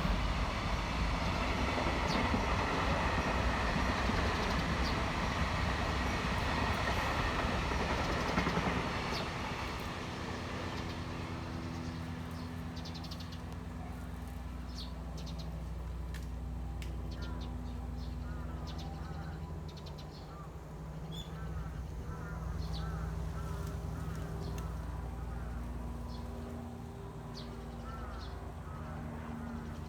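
A loud noise that dies away about nine seconds in, then small birds chirping repeatedly over a low steady hum.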